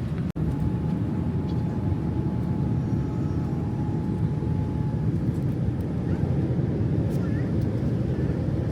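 Boeing 787-9 cabin noise: the steady low rumble of airflow and engines heard from a passenger seat. The sound drops out for an instant about a third of a second in, and a faint steady whine sits over the rumble for the first few seconds.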